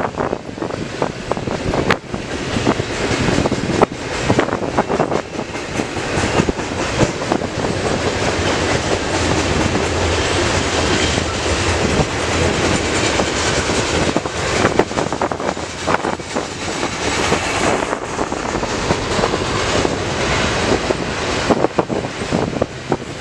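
Double-stack intermodal freight train's container well cars rolling past, a steady rumble of steel wheels on rail broken by irregular clicks as the wheels cross the rail joints.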